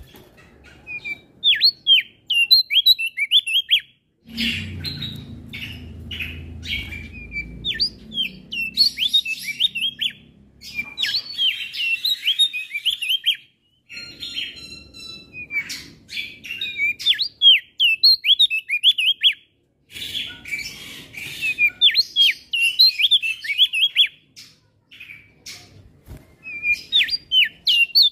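Male opior jambul singing bursts of quick, high chirps one after another, broken by short pauses. The song is filled with phrases copied from other small birds.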